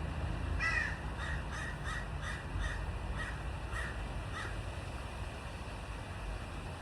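A bird calling in a quick series of about ten short, harsh calls over some four seconds, growing fainter toward the end.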